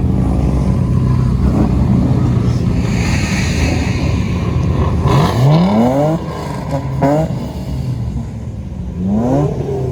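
Car engine running loudly, then revved up sharply three times, each rev a quick rising sweep in pitch, with a hiss a few seconds in before the revs.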